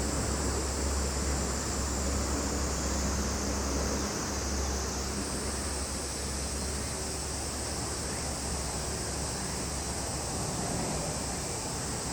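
Summer insect chorus: a steady, high-pitched, continuous buzz that shifts slightly higher about five seconds in, over a low steady rumble.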